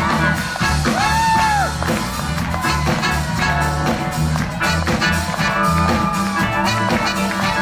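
Live band music with a steady beat and a heavy bass line, with long held melody notes arching over it.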